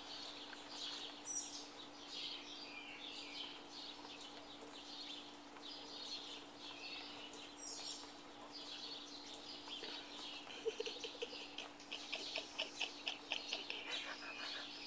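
Songbirds chirping and singing, with a quick run of short repeated notes in the last few seconds, over a faint steady hum.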